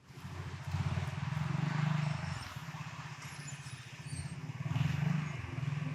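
Go-kart engine running at low speed, its level swelling and easing off a little without any hard rev.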